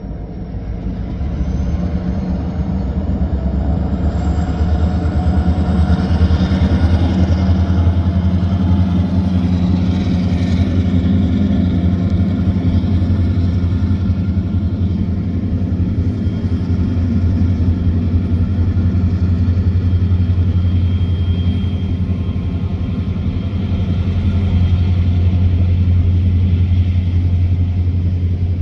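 A car driving on the road: its engine and road noise climb in pitch as it accelerates over the first several seconds, then hold at a steady cruise.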